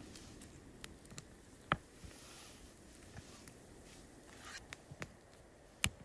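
A few sharp, separate clicks and taps over a quiet steady background, the loudest two near the start and near the end.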